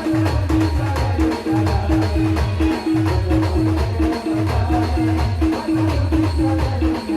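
Timli band music from an Adivasi band: a quick, steady beat with a short note repeating about three times a second over a falling bass line that repeats again and again.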